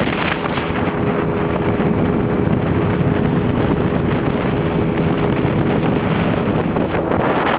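Heavy rain falling, a loud steady hiss, with a faint steady hum underneath for most of it.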